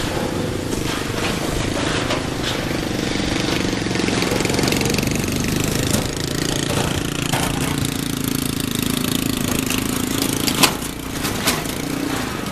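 SY 2-8-2 steam locomotive and its train of passenger carriages on the move, making a steady rumble with a droning tone. There are a few sharp metallic knocks near the end.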